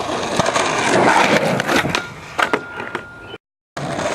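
Skateboard wheels rolling over pavement with several sharp clacks of the board. The sound cuts out abruptly for a moment near the end, then the rolling resumes.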